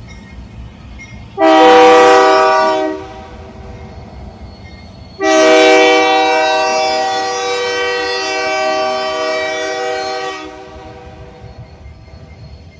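Locomotive air horn sounding a chord of several notes at once: a short blast, then after a pause of about two seconds a long blast of about five seconds, over the low rumble of the train.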